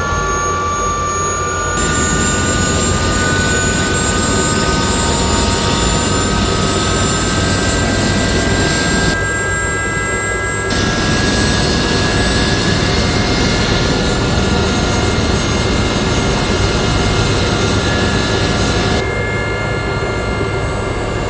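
Aérospatiale SA342M Gazelle helicopter's Astazou turboshaft engine and rotor running up during start-up. Several turbine whine tones climb slowly in pitch over a steady low rumble as the throttle is advanced toward the flight gate and the rotor speed builds to match the turbine.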